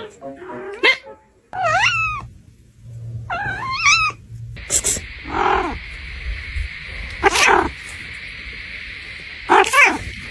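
A pet animal's calls: several short calls that rise and fall in pitch in the first four seconds, then a steady hiss from about halfway, with a few more short calls over it.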